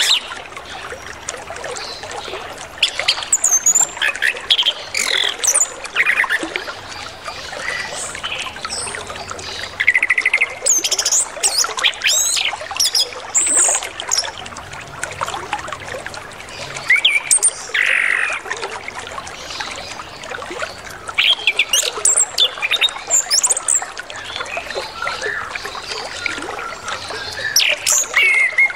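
Orange-headed thrush singing in bursts of varied, quick whistled phrases, a full song packed with other birds' calls, over steadily trickling flowing water.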